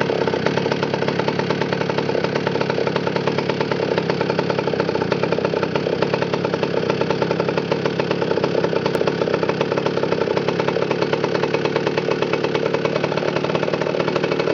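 McCulloch 797 chainsaw's 123cc two-stroke engine running steadily at an even speed, with a fast, regular firing beat.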